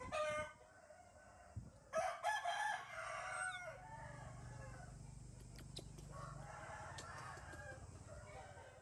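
Bird calls: a short call at the start, then a loud call about two seconds in that holds and falls away at its end, and a fainter, drawn-out call in the second half.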